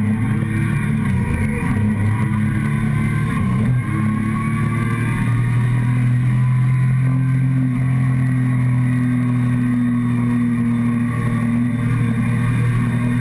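Motorcycle engine heard close up from the fuel tank while riding. Its note changes over the first few seconds, with a brief dip near four seconds, then holds steady at a constant speed.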